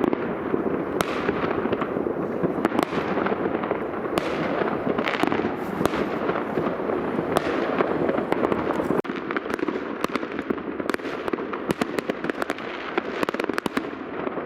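Many fireworks going off all around at once: a dense, continuous rattle of pops and bangs with sharp individual cracks throughout, easing slightly about nine seconds in.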